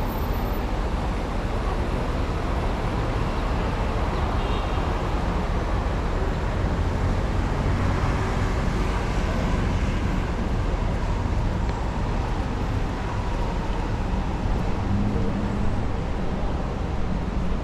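Steady low rumbling noise of city vehicles, with no single event standing out.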